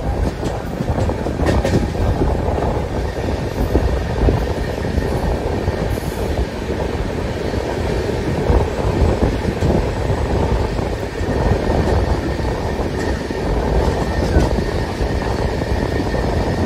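Express train running at speed, heard from an open door of one of its coaches: a steady rumble and rattle of wheels on the rails, mixed with rushing air.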